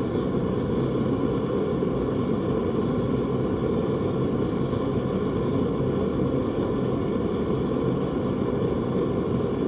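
A steady low rumbling noise with a faint even hum, unchanging throughout.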